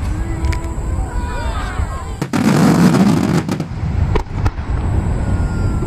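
Large aerial fireworks barrage: a star mine finale of shells bursting in quick succession with sharp cracks and a low rumbling boom. Thin gliding whistles sound in the first two seconds. About two seconds in, a dense, loud salvo of bursts and crackle lasts about a second.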